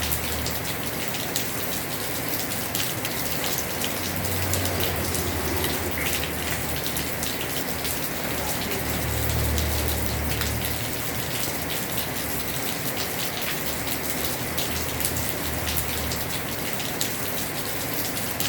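Heavy rain falling on a house roof: a steady hiss of rain with many separate drops ticking. Low rumbles swell up three times.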